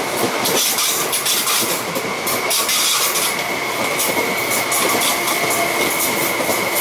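MTR East Rail line electric multiple unit (cars E215–E213) running through a station platform without stopping: a steady rumble and clatter of wheels on the rails, with a steady high whine over it.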